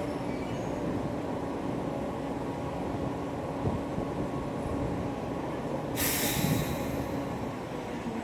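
Steady low mechanical rumble, with a sudden hiss about six seconds in that lasts about a second.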